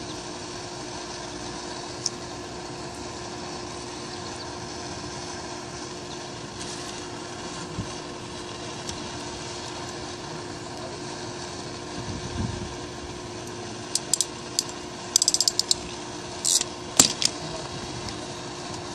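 Steady hum, then about three-quarters of the way in a string of sharp ratcheting clicks from a hand tool, a quick run of them together, a short hiss and one loud snap.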